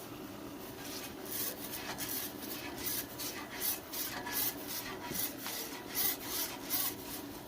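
Rhythmic rubbing or scrubbing strokes, about three a second, starting about a second in, over a faint steady hum.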